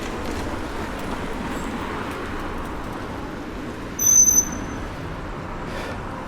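Steady street traffic noise heard from a moving bicycle. About four seconds in comes a brief, loud, high-pitched squeal lasting about half a second.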